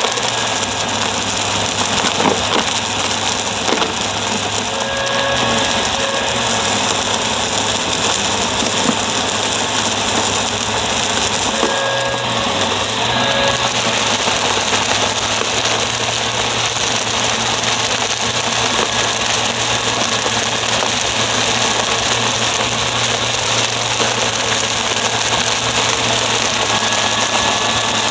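Upright vacuum cleaner running steadily, its motor hum dipping in pitch briefly a few times around the middle, under a dense hiss of air and brushroll.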